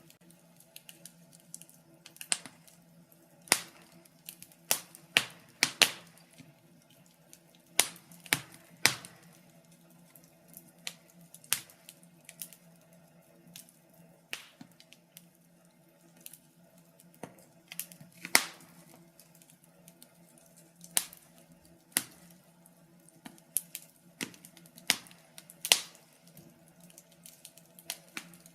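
Wood fire in a fireplace crackling, with irregular sharp pops, some coming in quick clusters, over a faint steady low hum.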